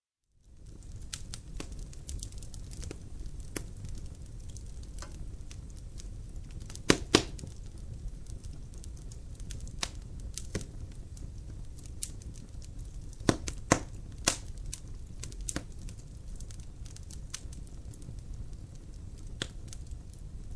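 Wood fire crackling in a fireplace: a steady low rumble of flames with scattered sharp pops and snaps. The loudest are a pair of pops about seven seconds in and a cluster around thirteen to fourteen seconds. It starts out of a moment of silence at the very beginning.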